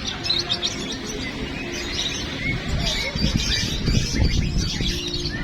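Many caged competition songbirds singing at once, a dense tangle of overlapping chirps, trills and short whistles.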